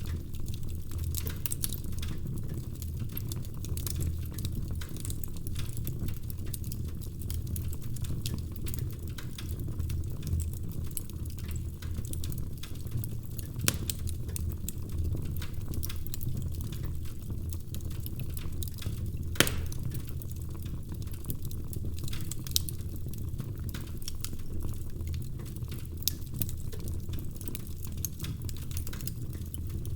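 Log fire in a fireplace crackling: a steady low rumble of burning under frequent small crackles, with a few sharper pops, the loudest about two-thirds of the way through.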